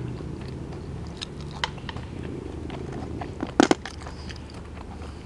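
A person chewing close to the microphone: scattered wet smacking clicks, with a louder sharp cluster of clicks about three and a half seconds in.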